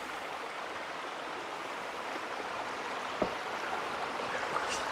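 Steady rush of a creek flowing over rocks, with a single short knock about three seconds in.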